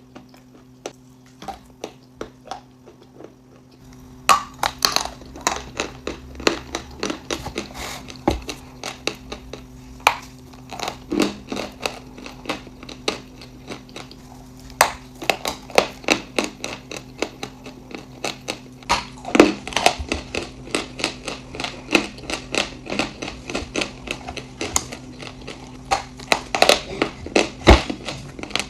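Close-up crunching and chewing of something hard and brittle, many sharp crunches a second. The crunching gets denser about four seconds in, over a steady low hum.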